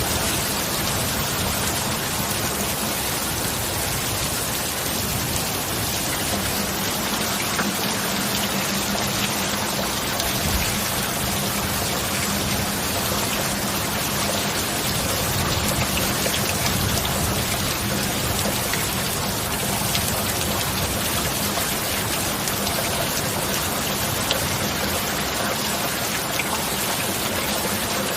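Steady rain falling, an even hiss of drops, with a faint low steady hum coming in about six seconds in.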